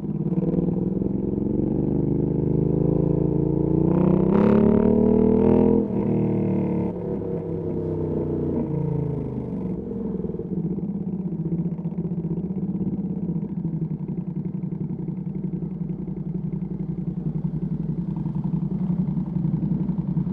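Ducati Panigale V2S V-twin through a Termignoni exhaust, rising in revs under throttle for about the first six seconds. The throttle then shuts abruptly, the note falls away over the next few seconds, and the engine runs steadily at low revs to the end.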